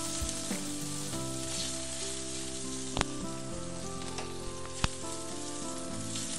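Raisins sizzling as they fry in a little oil in a nonstick pan while being stirred with a silicone spatula, with two sharp clicks about two seconds apart in the middle.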